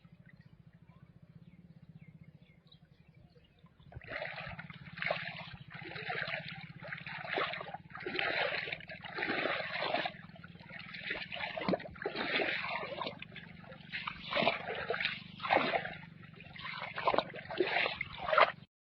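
Flowing water trickling and splashing in irregular surges, starting about four seconds in, over a low steady hum.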